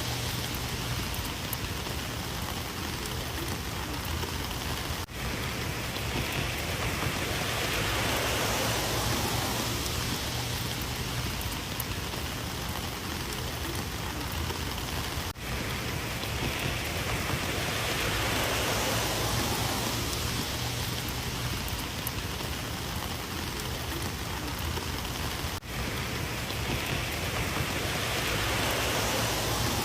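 Heavy rain falling, a steady dense hiss of drops on surfaces. The level dips briefly three times, about ten seconds apart.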